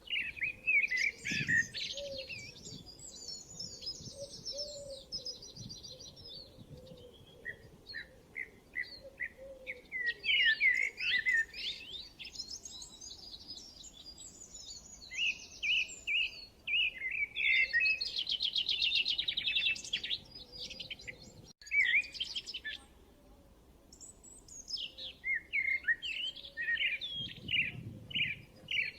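Several birds singing and chirping together: quick chirps, warbled trills and fast rattling note series, coming in bursts with short lulls between them.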